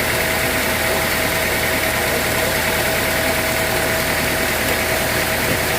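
An engine running steadily at idle, with a steady whine held throughout.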